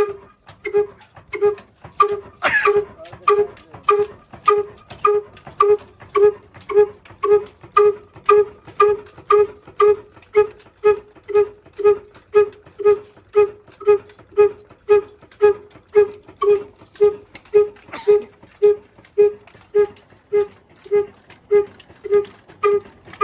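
Slow-running single-cylinder diesel engine, its exhaust giving an even, hollow, pitched puff somewhat under twice a second.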